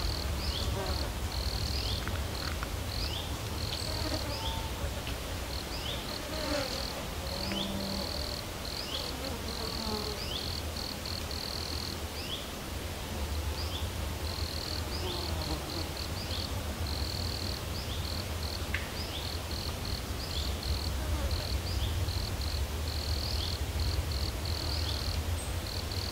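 Summer insects chirping in short, irregular high-pitched pulses, with a few short falling chirps and a steady low rumble underneath.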